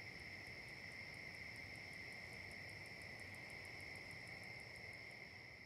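Insects trilling steadily, faint, in a continuous high-pitched drone, with a fast, even ticking above it at about six ticks a second.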